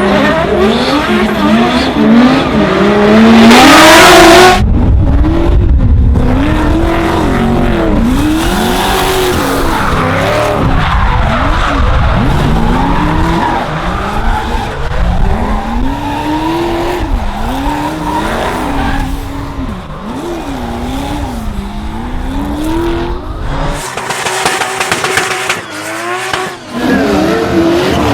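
Toyota Supra MK4's turbocharged 2JZ straight-six revving up and down over and over while drifting, with tyres screeching. The tyre noise is loudest about three to four seconds in.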